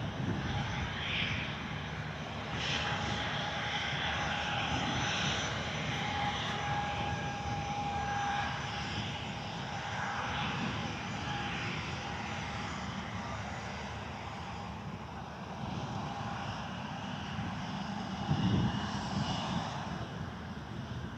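Twin radial piston engines of a B-25 Mitchell bomber droning steadily as the plane flies by, easing off slightly near the end.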